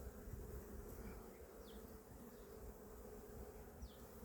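Honey bees buzzing around an opened hive: a faint, steady hum.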